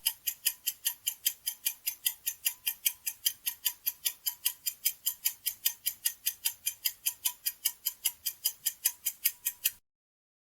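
Clock-ticking sound effect of a quiz countdown timer, about four to five sharp ticks a second, stopping shortly before the end.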